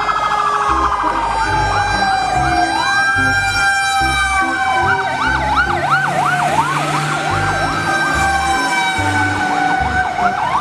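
Fire-engine siren: a slow wail rising and falling about every three seconds, with a fast warbling yelp joining it about halfway and a steady high tone under both.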